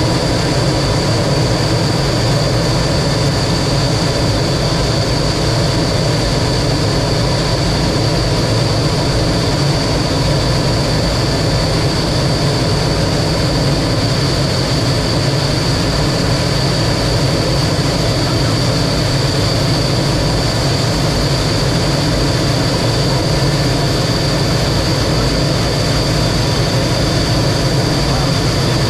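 T-33 jet trainer's engine running steadily, a constant high whine over a deep rumble and rushing noise.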